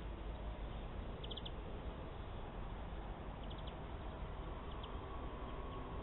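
Small songbirds calling: short runs of three or four quick high chirps about a second in and again around three and a half seconds, with a couple of fainter single chirps later, over a steady background hiss.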